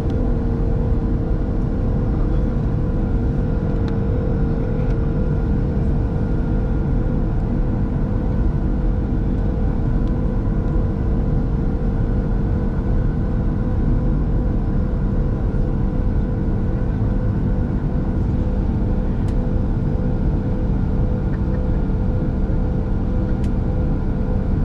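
Steady drone inside the cabin of a Boeing 737-700, a constant low rumble with a steady hum that holds its pitch throughout.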